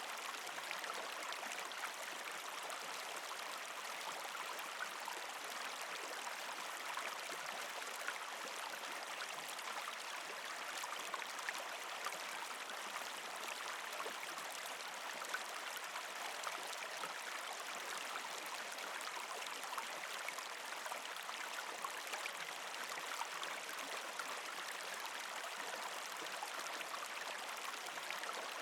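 Partially frozen creek flowing over rocks: a steady gurgling and trickling rush with many small splashes.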